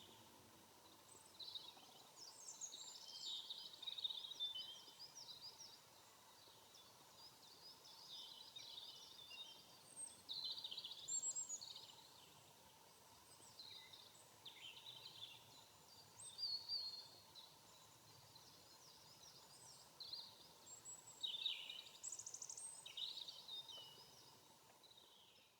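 Faint wild birdsong: scattered bursts of high chirps and trills from several birds, coming and going every few seconds.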